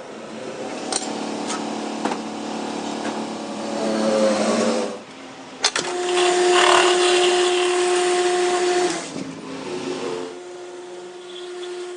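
Power-tool motor running in a metal workshop, with a steady whine that starts about six seconds in and drops away about three seconds later, and a few sharp metallic clicks.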